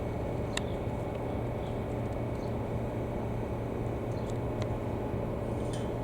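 Diesel locomotive idling: a steady, even low drone, with a few faint clicks over it.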